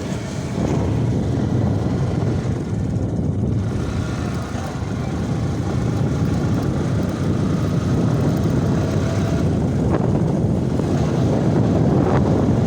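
Steady wind rumble on the microphone from a moving motorcycle, with engine and road noise beneath.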